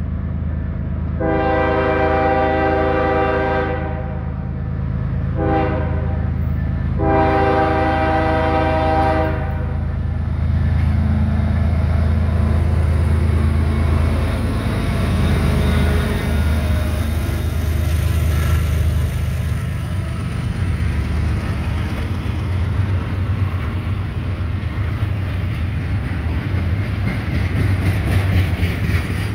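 Norfolk Southern GE ES44AC diesel locomotive's horn sounding a long blast, a short one and another long one, then its engine running loudly as it passes close, followed by the steady rolling clatter of flatcars loaded with rail.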